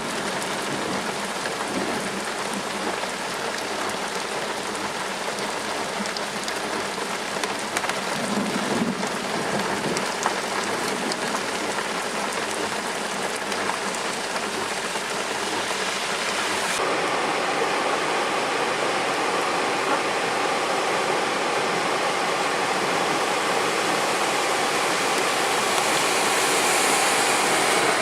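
Hard rain falling steadily as a dense, even hiss. About 17 seconds in the sound changes abruptly and grows fuller and slightly louder.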